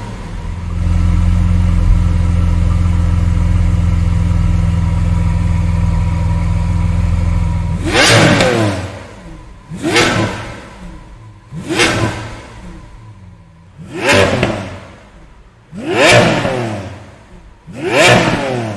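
Lamborghini engine idling steadily with a low, even sound for about eight seconds, then revved in quick throttle blips about every two seconds, six in all, each climbing and falling away.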